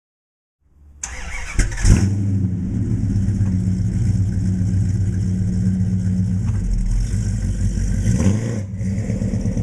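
Fuel-injected 440 V8 of a 1969 Dodge Super Bee, with Hooker headers and a 3-inch Flowmaster exhaust, cranking and catching about two seconds in. It then idles steadily.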